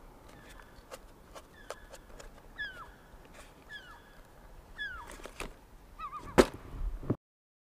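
A bird repeating a short, falling call about once a second. Under it are light clicks and knocks from the RC truck being handled, with one sharp knock near the end.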